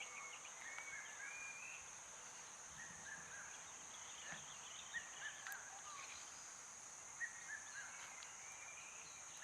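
Faint natural ambience: many small birds chirping and giving short rising and falling whistles, over a steady high insect drone. A single sharp click sounds about halfway through.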